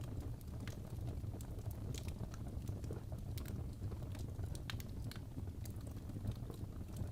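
Fireplace ambience: a wood fire crackling, with irregular sharp pops and snaps over a steady low rumble.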